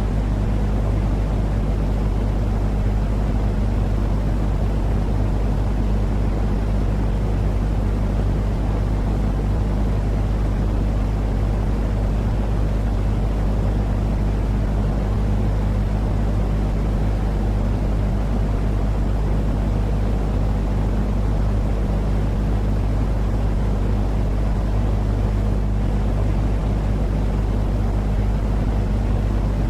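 Steady, deep sleep noise for calming a crying or colicky baby: an even rush weighted to the bass with a constant low hum in it, not changing at all.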